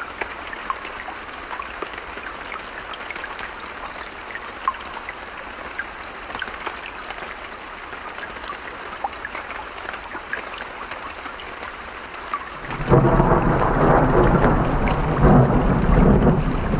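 Steady rain with scattered drops, then about thirteen seconds in a loud, deep rumble of thunder starts suddenly and rolls on to the end.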